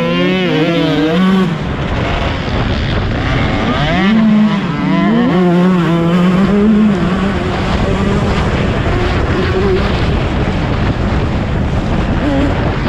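Motocross bike engines revving, their pitch rising and falling with the throttle, over a constant rumble of engine noise.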